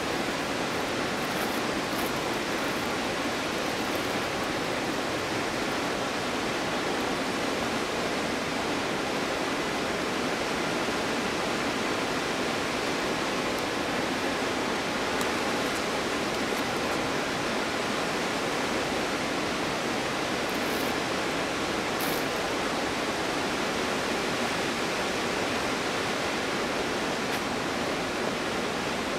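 The Stuibenfall waterfall in winter: a steady, unbroken rush of falling water with no change in level.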